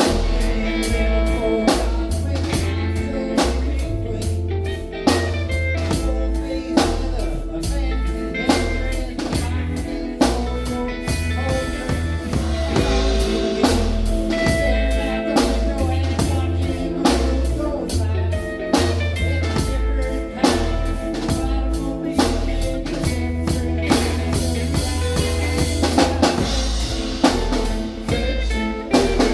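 Live band playing a blues-rock number, the drum kit keeping a steady beat over bass and guitar.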